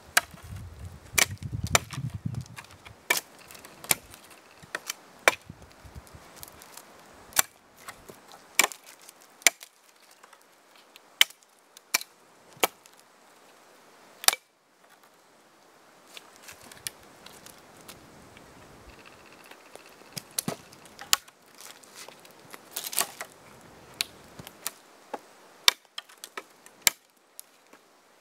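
Axe blows trimming the branches off a length of jack pine: sharp, separate chops about one a second, irregular, some coming in quick pairs.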